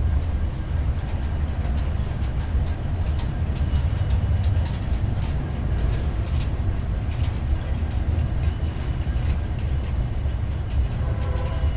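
Freight train rolling past: a steady low rumble with light ticking from the wheels on the rails.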